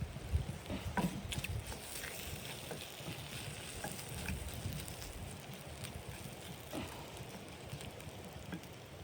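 Irregular crackles and clicks, a few sharper ones about a second in, over a steady low rumble.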